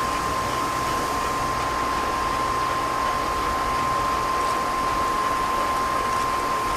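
Train washing machine running: a steady, even hiss with a single steady high whine.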